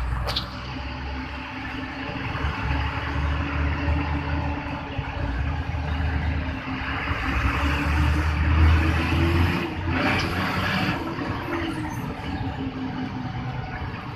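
Truck engine running under way, with a whine that climbs slowly in pitch as it speeds up, peaks about ten seconds in, then falls as it eases off.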